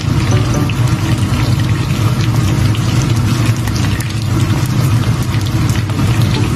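Chicken wings pan-frying in hot oil, sizzling with a dense, steady crackle and spit, over a steady low hum.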